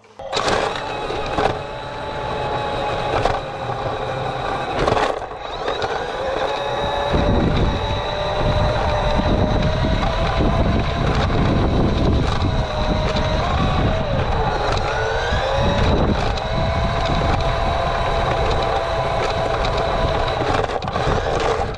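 Remote-controlled model Western Star 49X dump truck at work: a steady whine with its built-in simulated diesel engine sound, wavering in pitch for a moment past the middle, and a loud rumbling rattle joining from about seven seconds in.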